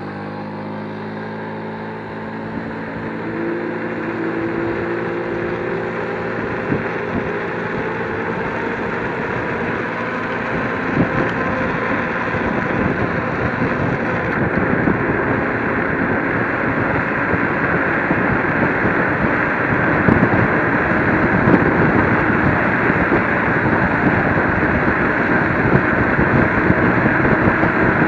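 Electric scooter accelerating: its motor whine rises in pitch over the first few seconds. Then wind rush on the microphone and road noise build steadily louder as it picks up speed.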